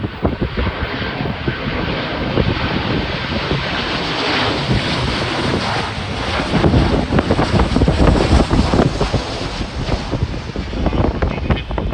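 Jet airliner on landing approach passing close by, its engine noise building to its loudest in the second half, with strong wind buffeting the microphone.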